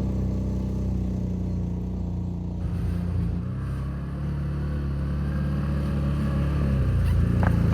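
CFMOTO ATV engine running while being ridden, its note shifting a few times as the throttle changes.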